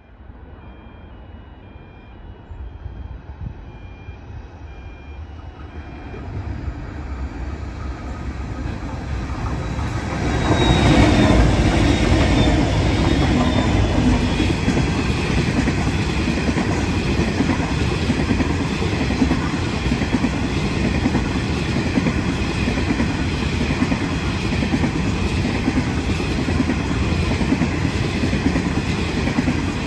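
Diesel-hauled coal train approaching, growing steadily louder for about ten seconds. The locomotive then passes close and a long string of coal hopper wagons rolls past at a steady, loud level, the wheels clattering on the rails.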